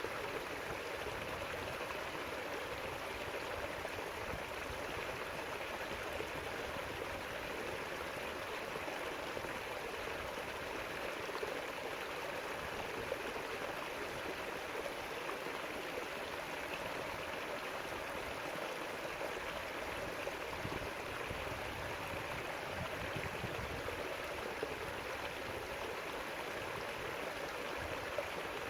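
River water flowing steadily over stones, a continuous rushing and gurgling with no change in strength.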